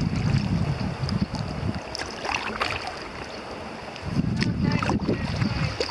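Wind buffeting the microphone in a gusty low rumble. It dies down for about two seconds midway, then picks up again, with a few light ticks or splashes late on.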